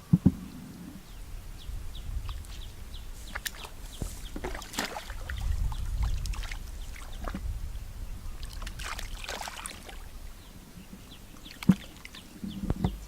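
Water sloshing and splashing, with a few short sharp knocks or splashes near the start, in the middle and near the end, over a low rumble that swells a few seconds in.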